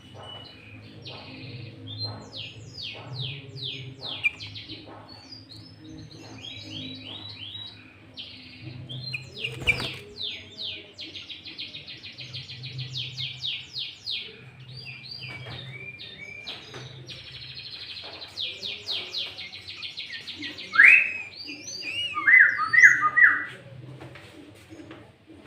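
Sooty-headed bulbul singing a fast, busy song of rapid chattering trills and quick down-slurred notes, ending in a few louder, lower whistled notes.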